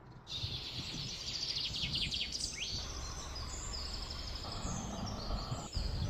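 Several wild birds chirping and singing in quick overlapping calls and trills, over a steady low rumble of outdoor background noise.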